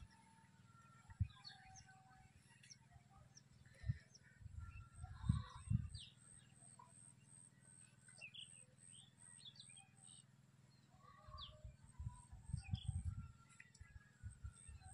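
Small birds chirping and calling off and on, with a faint high pulsing call for several seconds in the middle. Low thumps and rumbles come and go, loudest about five seconds in and again near the end.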